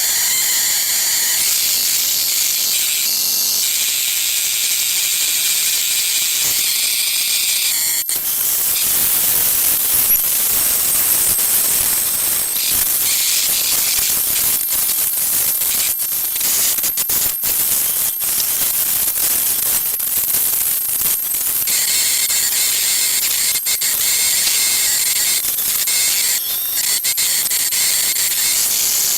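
Electromagnetic interference from an iPad 2's processor while it boots, picked up and heard as audio: a loud hiss with layered high whining bands. About a quarter of the way in it breaks into dense, irregular crackling clicks. The banded hiss returns near the end.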